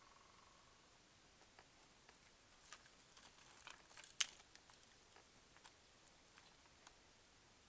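A scatter of light clicks and small rattles of hard objects being handled, densest about three to four seconds in, with one sharper click among them.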